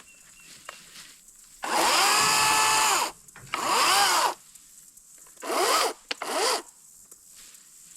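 A small electric power tool's motor run in four short bursts, each spinning up quickly, holding its pitch briefly and winding down; the first burst is the longest, the last two are short and close together, as small trees growing up in a deer stand are cut down.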